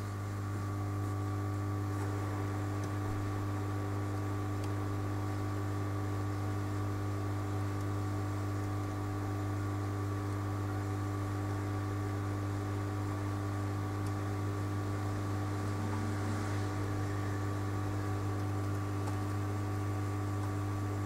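Steady low electrical hum with a few fainter higher tones and a light hiss over it.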